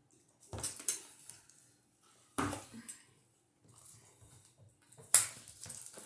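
Ice cream cups and utensils being handled on a table: a few separate sharp knocks and clatter with light rustling between, the loudest knock near the end.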